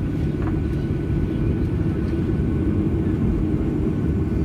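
Cabin noise inside a Boeing 737-800 taxiing: a steady low rumble from its CFM56 jet engines at taxi power and the rolling airframe.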